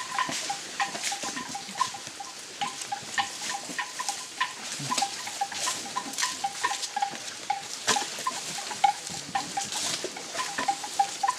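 Elephants walking through jungle undergrowth: irregular crackling and snapping, with a string of short, repeated high notes throughout.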